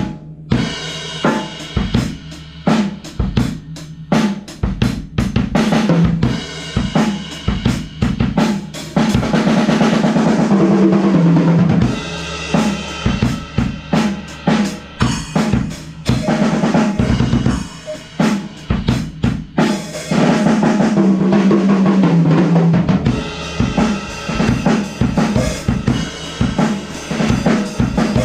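Sonor AQ2 Safari drum kit (16" kick, 13" snare, 8", 10" and 13" toms, hi-hats and crash, splash and thin cymbals) played in a basic rock groove of kick, snare and hi-hats. It gets louder and denser twice, about a third and two-thirds of the way through. Picked up by a GoPro's built-in microphone.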